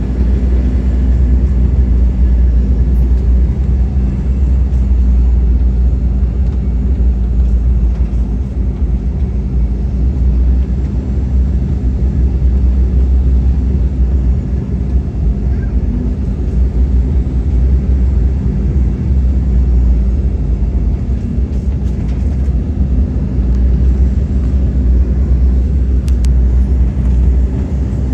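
Steady cabin rumble inside an Embraer E190 airliner: engine and airflow noise, deep and continuous with a steady low hum.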